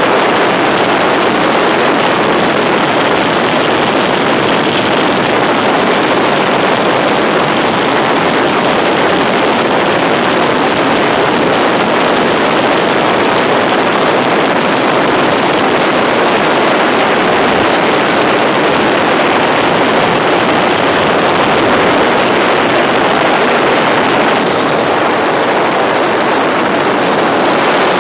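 Tour helicopter in flight, heard from inside the cabin: a loud, steady rush of rotor and engine noise that holds even throughout.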